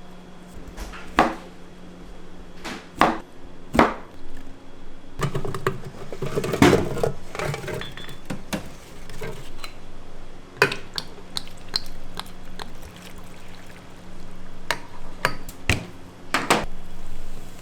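Kitchen prep: scattered knocks and clinks of dishes and utensils, with a busier stretch of pouring or mixing liquid around the middle, over a steady low hum.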